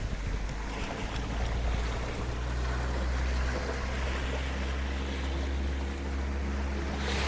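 Sea waves washing ashore with wind noise on the microphone, under a steady low engine drone that gains higher overtones about halfway through.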